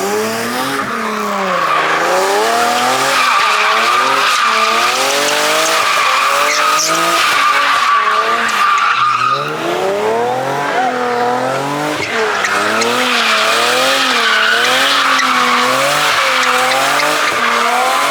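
A vehicle doing donuts: tires squealing steadily on pavement while the engine's revs rise and fall over and over.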